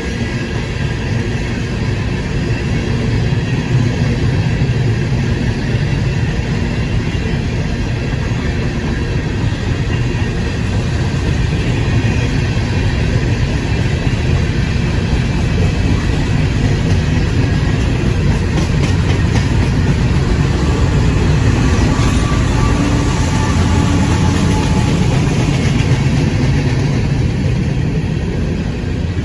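CSX freight train rolling past: the steady low rumble of railcars on the track, running on without a break.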